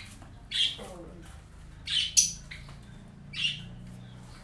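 A bird chirping: short, sharp calls about four times, a second or so apart, over a faint low steady hum.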